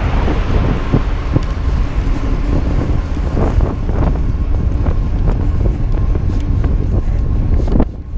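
Wind buffeting the microphone of a camera on a moving electric bike, a loud steady low rumble with frequent short knocks and rattles; the noise drops off abruptly near the end.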